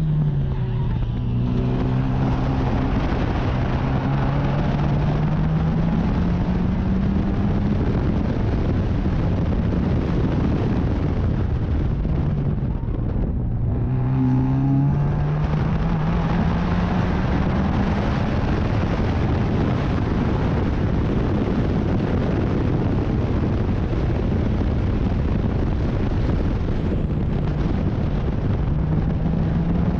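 Racing car's engine under load, its pitch dropping sharply right at the start and again about halfway, as it slows and downshifts, then climbing steadily each time as it accelerates back up. Dense wind and road noise throughout.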